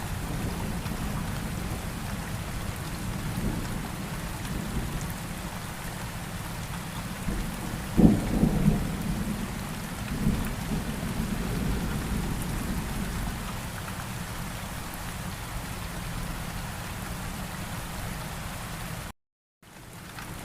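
Steady rain with low rumbling thunder; a sharper, louder thunderclap about eight seconds in and a smaller one shortly after. Near the end the sound cuts out completely for a split second, then the rumble builds again.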